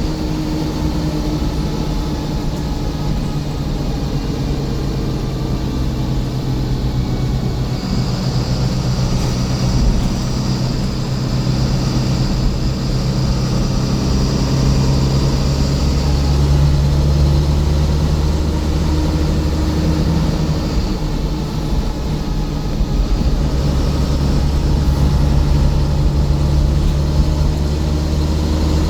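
Scania coach's diesel engine running with a steady low drone that grows heavier about halfway through, and a faint high whine in the middle part.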